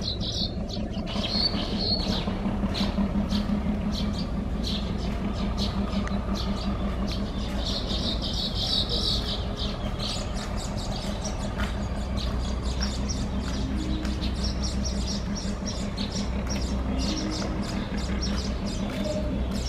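A Bangladesh Railway local passenger train running away along the track, a steady low rumble with a faint pulsing beat. Birds chirping over it.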